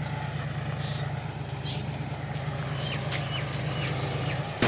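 John Deere 5045D tractor's three-cylinder diesel engine running steadily with an even low pulse, while birds chirp in short high calls over it. Right at the very end the sound jumps abruptly much louder.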